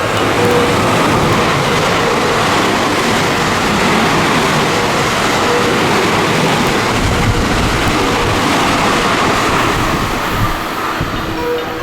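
Special rapid (Shin-Kaisoku) electric train passing through the station without stopping: a steady, loud rush of wheel and air noise that eases slightly near the end.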